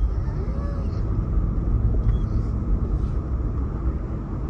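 Car driving on a road, heard from inside the cabin: a steady low rumble of tyre and engine noise.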